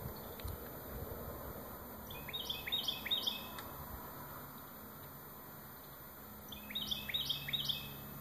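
A songbird singing two short phrases, each of three or four quick repeated notes, one about two seconds in and one near the end.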